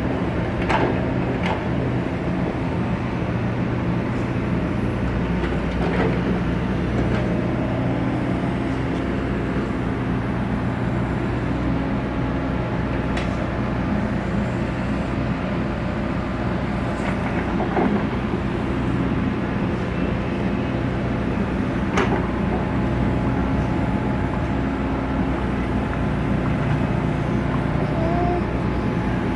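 Excavator's diesel engine running steadily, with a few sharp knocks now and then.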